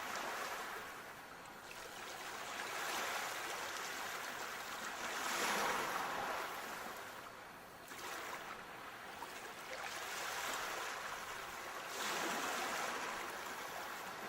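Sea waves washing onto the shore, the surf swelling and falling back about four times.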